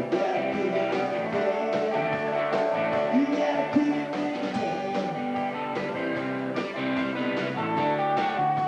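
Rock band playing a rock-and-roll song, with electric guitar prominent over bass and drums.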